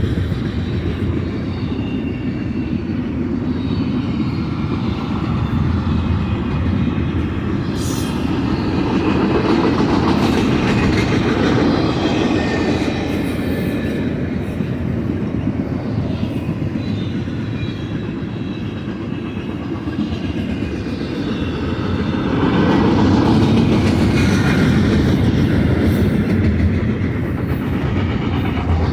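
BNSF double-stack container freight train rolling past, a steady rumble of steel wheels on rail that swells louder twice.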